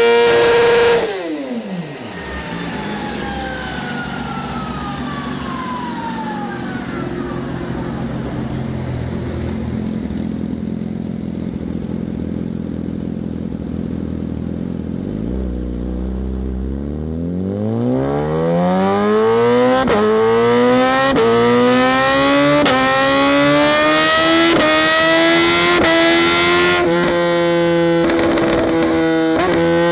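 BMW motorcycle engine: a high rev that drops away quickly to a lower steady note, then a long climb in pitch as it accelerates, ending at a high steady pitch.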